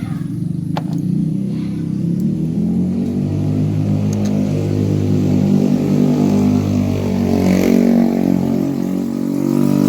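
A small motorcycle engine running, its pitch and loudness climbing slowly as it revs up.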